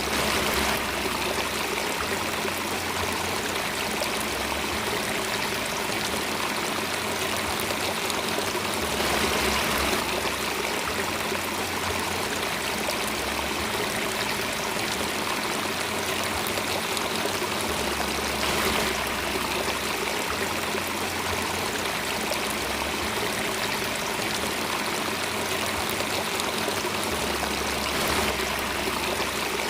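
Running water of a stream, a steady, even rush that swells slightly about every nine seconds.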